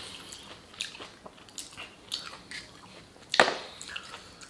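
A person biting and chewing crunchy fried chicken close to the microphone, with scattered crackles of breading and one sharp crunch about three and a half seconds in.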